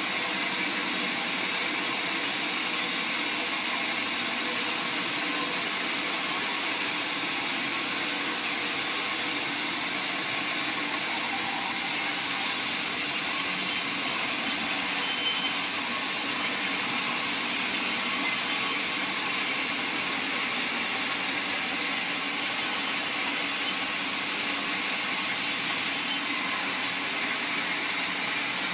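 Sawmill saw running steadily as it cuts through a mahogany log, a continuous even hiss-and-whir with no pauses.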